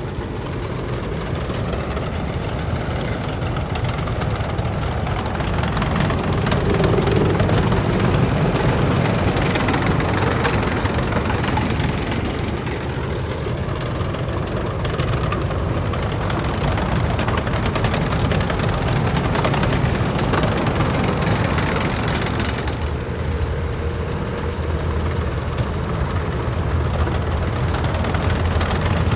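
Heavy military vehicles driving past one after another, their diesel engines running with a deep steady rumble. The loudness swells and fades as each vehicle approaches and goes by.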